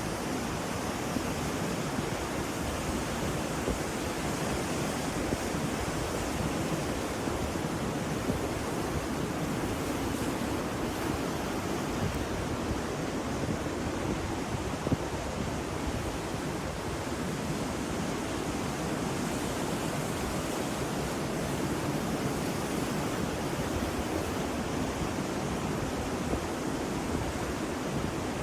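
Ocean surf: a steady, unbroken wash of waves with no single breaker standing out.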